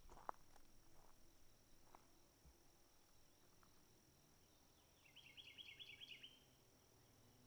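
Quiet outdoor ambience: a step or tick just after the start, a faint steady high tone throughout, and about five seconds in a brief rapid trill of short high notes lasting just over a second.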